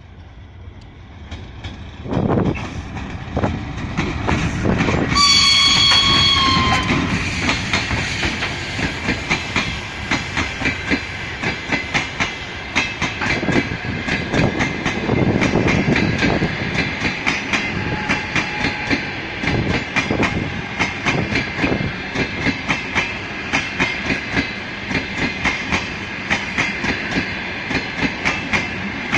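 Passenger train hauled by an electric locomotive passing close by. The locomotive sounds its horn once, a single note of nearly two seconds that drops slightly at the end, about five seconds in; the coaches then run past with a rapid, even clickety-clack of wheels over rail joints over a steady rumble.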